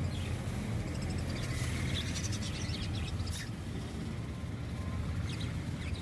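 Small cage birds chirping in short high calls, a cluster of them around two to three seconds in, over a steady low hum.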